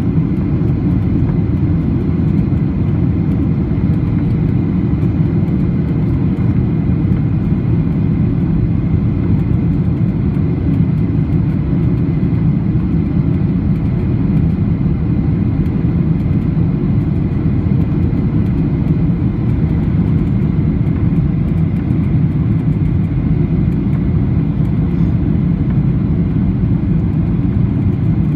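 Steady low rumble in the cabin of a Boeing 737-800 airliner: its CFM56-7B engines and the airflow over the fuselage, heard from a passenger seat.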